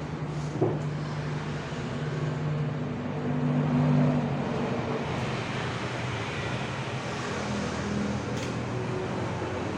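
Motor vehicle engine running with a steady low hum among traffic noise. The hum swells about four seconds in, and there is one short click near the start.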